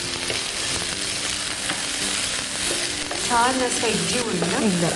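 Chopped spring onions and capsicum sizzling in hot olive oil in a pan, stirred and scraped with a spoon as they sauté.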